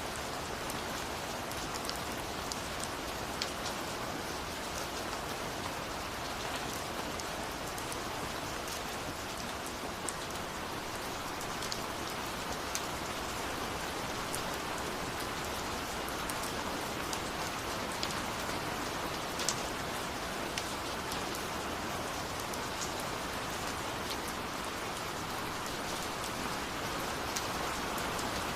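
Steady rain falling on a surface, a constant hiss with the sharp ticks of single drops scattered through it.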